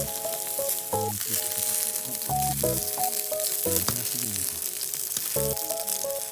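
Daikon and carrot sizzling as they fry on a Honma wood stove, a steady crackling hiss, with background music playing over it.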